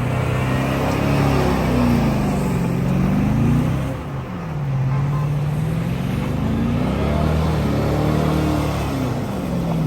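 Van engine running under way, its pitch rising and falling several times as it speeds up and eases off.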